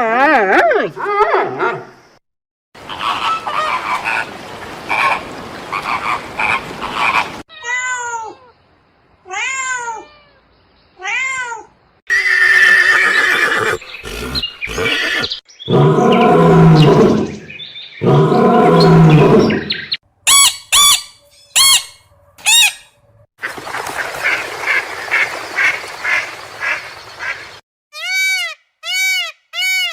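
A string of different animal calls, cut one after another in short segments with brief silences between them. They include repeated rising-and-falling calls and low, loud calls.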